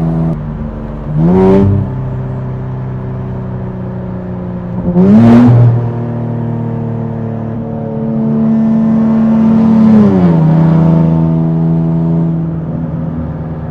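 Infiniti Q60's tuned twin-turbo V6 running under throttle: two short rises in revs, about a second in and about five seconds in, then a longer pull held at higher revs that falls back down near the ten-second mark.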